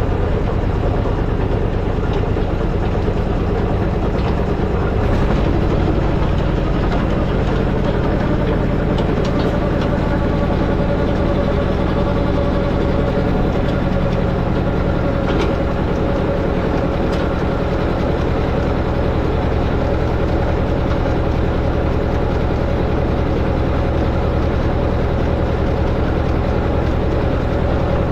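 Allis-Chalmers tractor engine running steadily while driving a post hole digger auger as it bores a hole. The engine note rises slightly about five seconds in.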